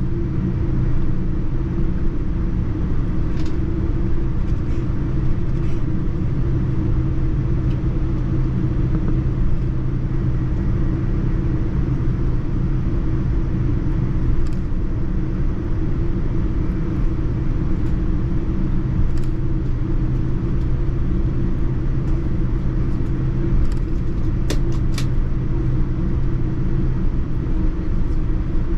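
Steady cabin rumble inside a Boeing 787-9 airliner, a constant rushing noise with a low hum underneath. Two short clicks near the end.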